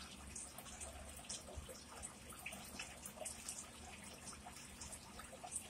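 Faint close-up chewing of a mouthful of salad greens, a scatter of small irregular mouth clicks and crunches.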